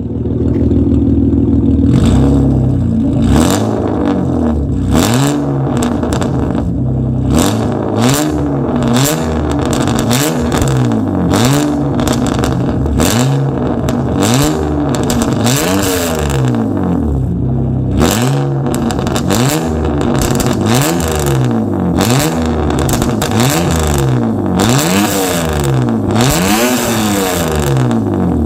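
BMW E39 528i's straight-six engine through an aftermarket cat-back exhaust, idling for about two seconds and then revved in quick blips, about one a second, its pitch rising and falling with each.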